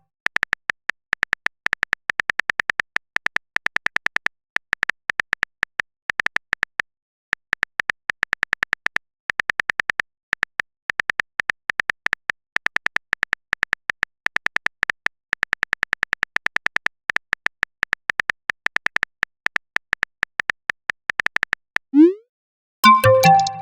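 Phone-keyboard typing sound effect: rapid, even key clicks in runs with short pauses, as a message is typed out. Near the end a short rising whoosh, then a brief electronic chime, the sounds of a message being sent and arriving.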